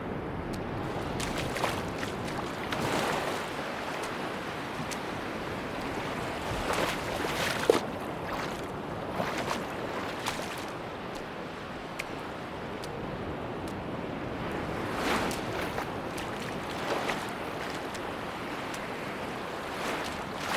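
Sea waves washing onto a beach: a steady surf hiss with irregular swells and splashes every second or two.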